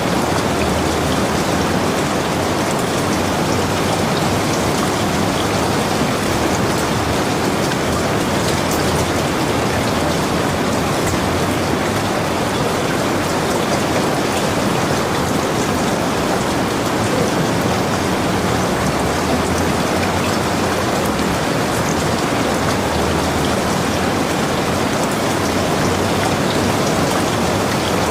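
Steady heavy rain, a dense even hiss of drops falling on surfaces with fine pattering detail.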